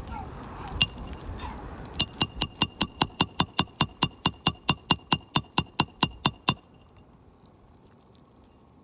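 Hammer striking metal in a fast, even run of about five blows a second for some four seconds, each blow with a bright ringing note, then stopping. It follows a single blow about a second before. This is roofing work on asphalt shingles.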